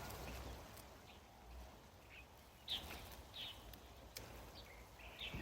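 Birds chirping faintly: short, separate calls about once a second over a low outdoor background rumble.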